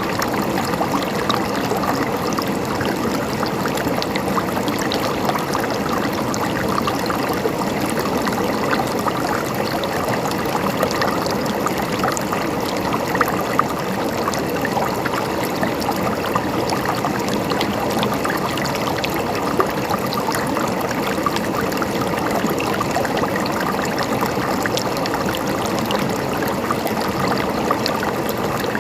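River water flowing over stones with a steady gurgling and trickling rush.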